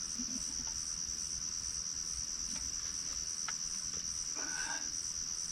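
Crickets chirping in a steady, high-pitched chorus, with a faint pulsing chirp above it and a few faint clicks.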